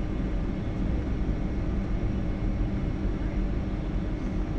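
Steady cabin noise inside a Boeing 757-200 on the ground after landing: an even low rumble with a few steady hum tones underneath.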